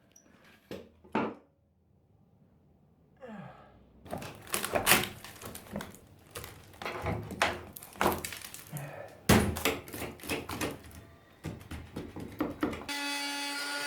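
Rotten wood being pried and broken out of a bus's door framing: a few separate knocks, a short pause, then a long run of irregular thunks, cracks and scraping. A brief steady hum comes in near the end.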